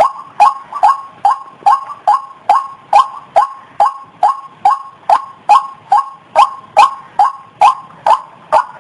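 White-breasted waterhen (ruak-ruak) calling, a loud, even run of about twenty-one short, harsh notes at roughly two to three a second. This is the repetitive call played as a lure to attract waterhens, and it stops near the end.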